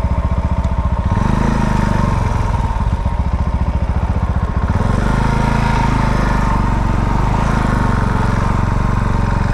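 Herald single-cylinder motorcycle engine running close to the microphone. It pulses evenly at low revs, picks up about a second in, and runs steadily at higher revs from about halfway through.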